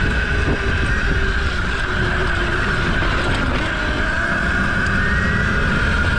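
Mini bike riding along at a steady speed: its motor runs with a steady high whine over a heavy low rumble of wind and ground noise.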